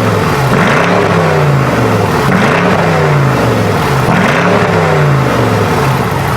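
BMW M850i's twin-turbo 4.4-litre V8 revved repeatedly through an aftermarket valved exhaust: three blips, each rising and falling in pitch, about two seconds apart.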